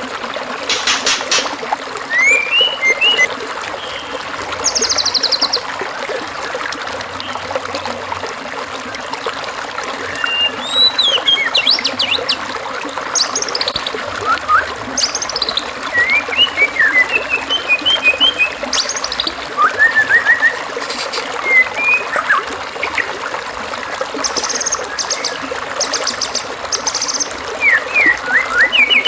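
Assorted songbird calls over a steady trickle of running water: short rising and falling whistles, chirps and buzzy rattling trills follow one another throughout. It is a masteran recording of varied bird sounds used to teach a white-rumped shama new song material.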